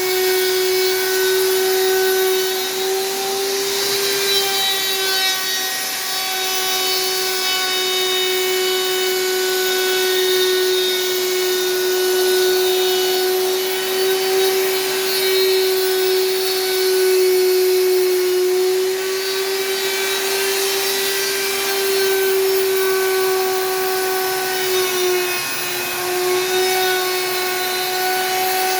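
Electric power tool motor running steadily on wood, a continuous whine with rubbing and cutting noise underneath. The pitch wavers and dips briefly a few times, most clearly near the end, as the tool is loaded.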